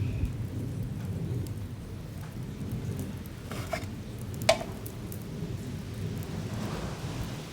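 Wood campfire burning, with a low steady rumble and scattered small crackles, and two sharp pops a little past the middle, the second the loudest.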